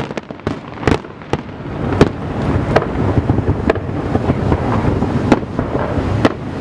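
Aerial fireworks bursting: sharp bangs every second or so over a continuous low rumble and crackle that thickens about two seconds in.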